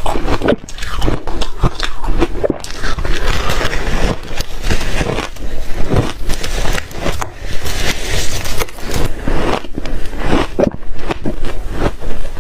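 A person chewing and crunching reshaved refrigerator ice: rapid, irregular crunches with gritty scraping between them.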